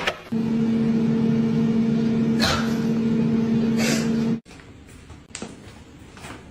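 A steady electrical machine hum, with two short hissy noises over it, cuts off suddenly about four seconds in, leaving quiet room tone.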